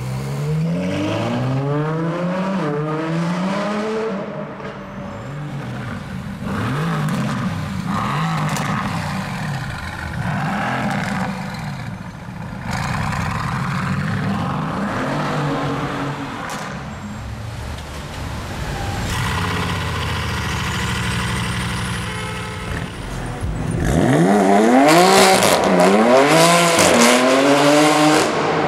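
Supercar engines accelerating hard through the gears: the Ferrari LaFerrari's V12 pulls away with pitch rising and dropping at each upshift, then other cars rev and accelerate. Near the end comes the loudest run up through the gears, with sharp cracks over it.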